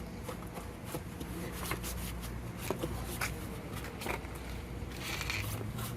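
A cloth rag rubbing and wiping over a motorcycle's bodywork, with scattered light clicks and rustles as it is handled.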